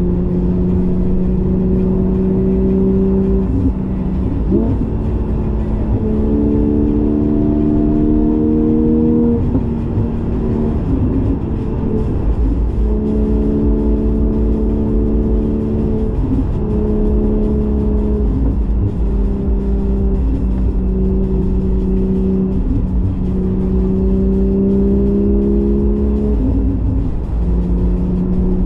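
Porsche 718 GTS 4.0's flat-six engine through a Kline stainless exhaust with the valves open, running under load while being driven. Its drone rises a little and steps to a new pitch every few seconds as revs and gears change.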